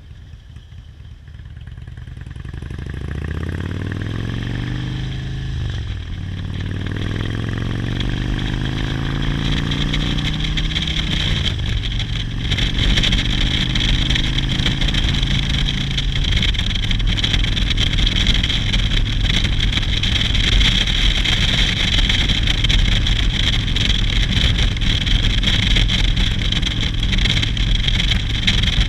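Motorcycle engine pulling away and accelerating, its pitch climbing, dropping at a gear change, climbing again and dropping at a second shift, then holding steady at cruising speed. Wind noise builds as the speed rises.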